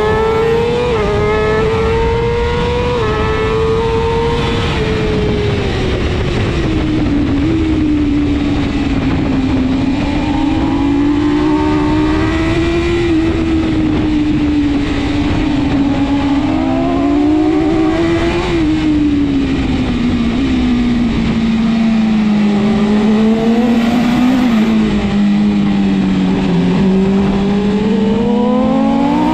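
BMW S1000RR superbike's inline-four engine running hard on track. Its pitch climbs with small quick drops at the gear changes early on, falls away over several seconds, wanders up and down, then sits low before climbing again near the end.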